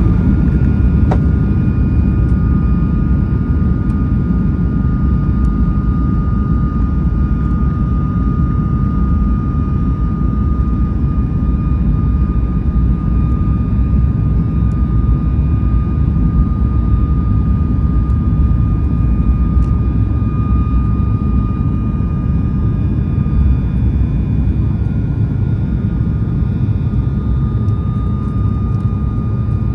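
Cabin noise of a Boeing 737 MAX 8 under power, heard from inside the cabin: the CFM LEAP-1B engines give a loud, steady rumble with a steady high fan whine over it.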